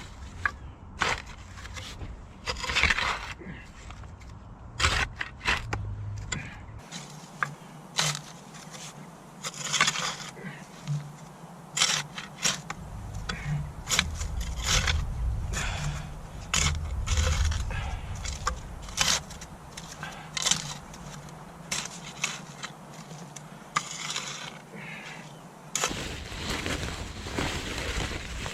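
Irregular knocks, scrapes and crunches, roughly one every second: sawn log rounds being laid and bedded into soil to make a path.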